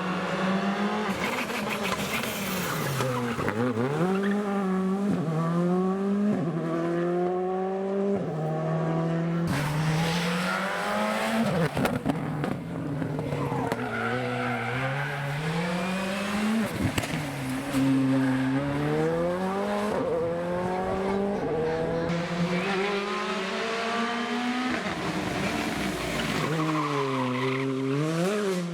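Rally car engines revving hard through the gears, the pitch climbing with each gear and falling sharply at every shift, with quick drops and rises as the cars brake and downshift for corners.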